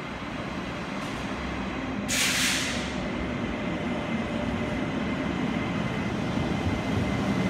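Taiwan Railways E200 electric locomotive hauling a Chu-kuang Express pulling into the platform, its rumble growing steadily louder as it approaches. A sharp hiss comes about two seconds in and lasts about a second.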